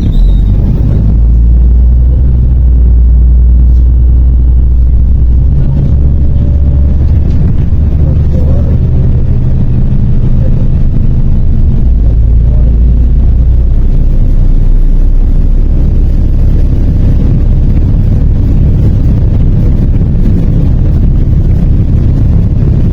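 MAZ 103 city bus running, heard from inside the cabin: a steady, loud low engine drone whose pitch changes about six seconds in and again around twelve to fourteen seconds in, as the bus changes speed.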